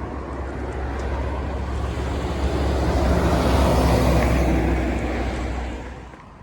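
A motor vehicle driving past with a low engine hum, swelling to its loudest a few seconds in and fading away near the end.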